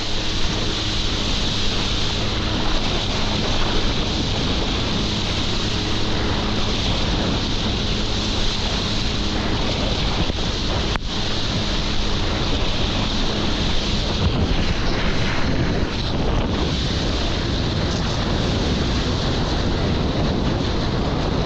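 Wind buffeting the microphone and water rushing during a wake surf, over the steady hum of a jet ski engine. The engine hum fades out about two-thirds of the way through.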